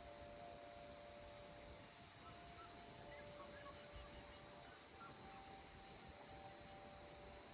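Faint evening insect chorus: a steady high-pitched trill, with a few long steady lower tones underneath and occasional small chirps.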